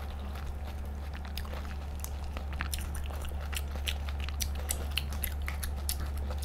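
Close-miked mouth chewing soft cooked giant isopod meat with scallion oil: many small wet clicks and smacks, over a steady low hum.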